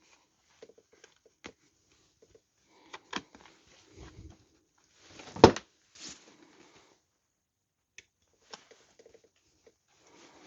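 Scattered clicks, knocks and rustles of hands handling a seat cover and tools, with one sharp snap about five and a half seconds in.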